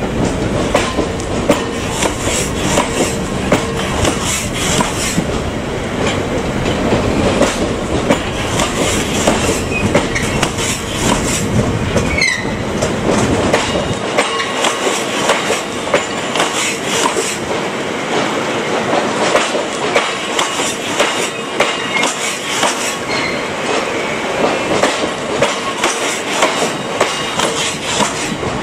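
Freight train's covered hopper wagons rolling past at close range, their wheels clattering over the rail joints in a steady clickety-clack. The deep rumble underneath thins out about halfway through.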